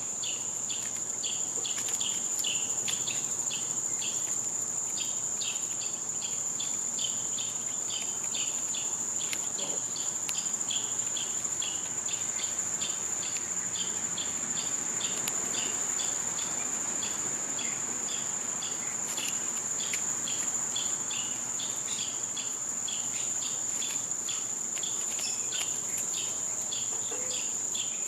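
Summer insect chorus: a steady, unbroken high-pitched trill, with a second insect giving rapid, rhythmic chirps beneath it.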